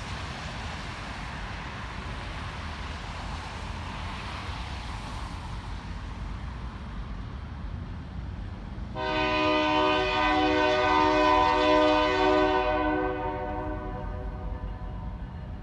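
Locomotive air horn of Iowa Interstate GP38-2 #705 sounding one long multi-tone blast of about four seconds, starting about nine seconds in, over a steady low rumble and hiss.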